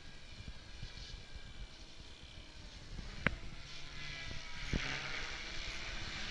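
Goblin 700 electric RC helicopter running, a steady whine from its motor and rotor, with a sharp click about three seconds in.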